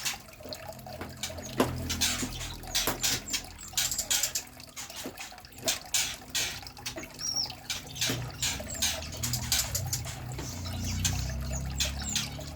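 Small birds in an aviary giving many short, sharp chip calls, with one brief whistled note about seven seconds in, over a low hum.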